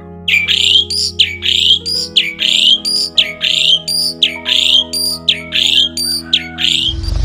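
A bird calling over and over, about two short calls a second, each call dropping in pitch, over background music with long held notes.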